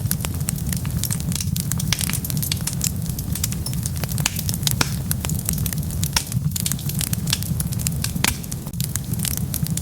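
Wood fire burning: frequent irregular sharp crackles and pops over a steady low rumble of the flames.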